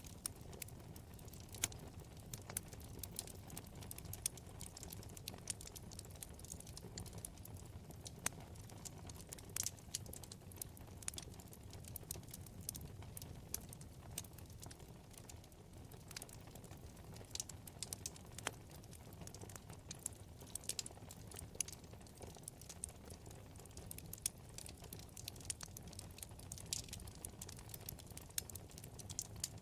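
Wood fire burning in a fireplace: irregular sharp crackles and pops from the burning wood over a low steady rumble of the flames.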